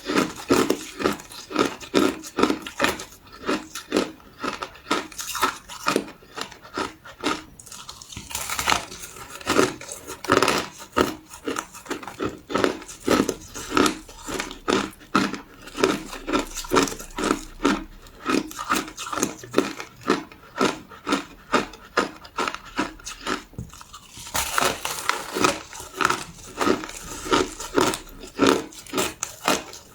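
Crushed ice being chewed: a steady run of crisp crunches, about two to three a second.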